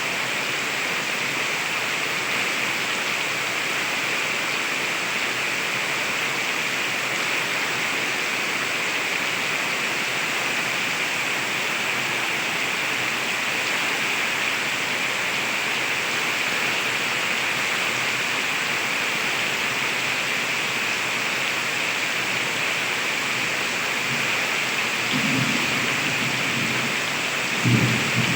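Heavy rain falling steadily, with two short low rumbles of thunder near the end, the second the louder.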